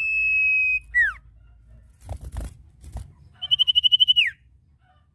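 Common iora (sirtu) calling: a long, steady, high whistle that ends in a quick downward slur about a second in. Then, past the halfway point, comes a fast pulsed whistle of about a dozen beats that also drops at the end. A few soft knocks fall between the calls.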